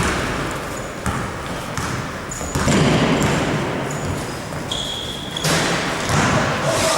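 Indoor basketball game: a ball bouncing on the court and sneakers squeaking, the clearest squeak about five seconds in, all echoing in a large gym.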